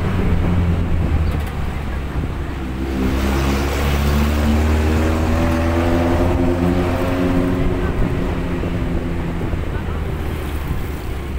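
Jeep engine running under load, its pitch rising from about three seconds in and easing back down in the second half.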